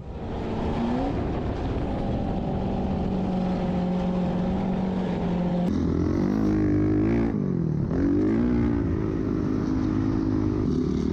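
An off-road vehicle's engine running under steady throttle for about six seconds. After a sudden change it revs up and down several times.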